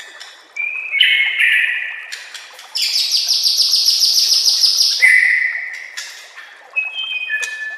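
White-rumped shama (murai batu) singing: clear whistled notes, then a loud, fast rattling trill lasting about two seconds in the middle, then more slurred whistles.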